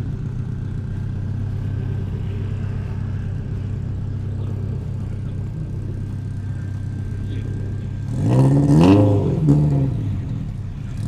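A car engine idles with a steady low drone, then is revved hard twice in quick succession, the pitch rising and falling each time, about eight seconds in.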